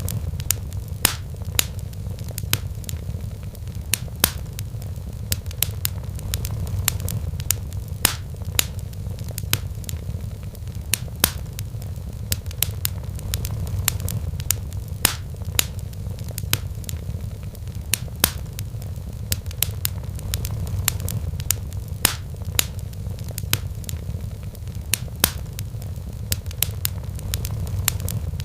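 Wood fire in a fireplace crackling: irregular sharp snaps and pops, a few a second, over a steady low rumble.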